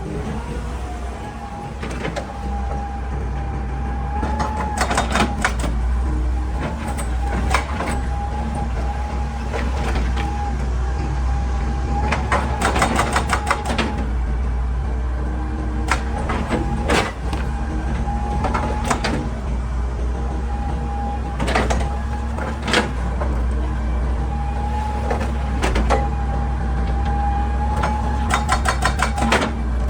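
Hitachi EX200 excavator's diesel engine running steadily under load with a steady hydraulic whine, broken every few seconds by bursts of rapid, sharp knocks as the machine works against rock.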